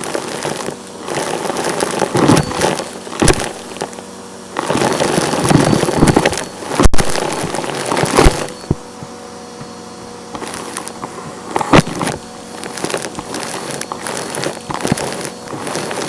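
Vacuum cleaner running and sucking up crunchy debris: irregular crackling, rattling bursts, some sharp, over the machine's steady hum.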